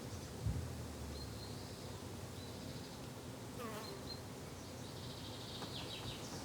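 Garden ambience: a flying insect, bee or fly, buzzing steadily, louder for a moment about half a second in. Small birds chirp thinly in the background, with a short falling call a few seconds in.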